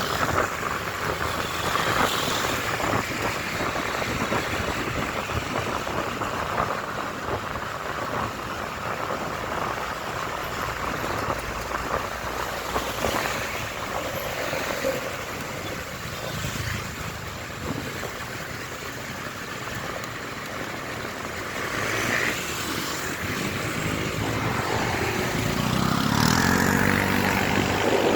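Motorcycle ride heard from a motorcycle-mounted camera: wind rushing over the microphone with engine and road noise. Near the end a pitched engine note grows louder.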